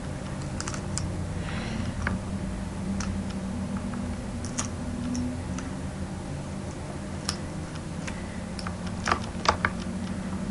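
Irregular clicks and taps of a computer keyboard and mouse, spaced a second or more apart with a louder cluster near the end, over a low steady hum.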